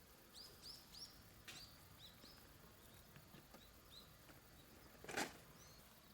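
A small bird calling with a quick run of short, high chirps, then a few fainter ones. A single sharp knock about five seconds in is the loudest sound.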